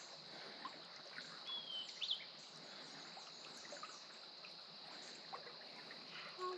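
Faint creek ambience: water running steadily over the stream bed under a steady high hiss, with a short whistled bird call about two seconds in.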